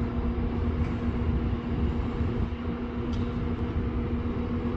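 Freight train of open hopper cars rumbling low on the rails, under a steady hum.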